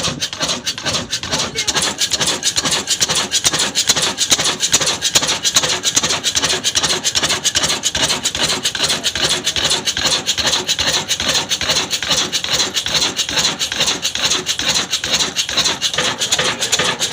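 Wood being cut by a saw driven by an old 18 HP diesel engine: a steady, loud rasping with a fast, even beat that never stops.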